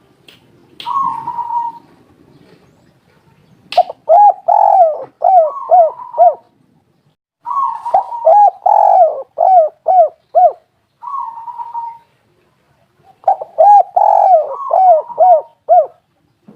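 Spotted dove cooing in repeated phrases: a couple of short coos, then three long runs of quick rising-and-falling notes, with a short coo between the second and third. A sharp click comes just before the first long run.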